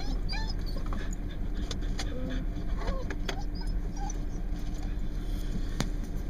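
Steady low wind rumble on the microphone. A dog whimpers briefly at the start and a few short whines follow a couple of seconds in, with an occasional sharp click.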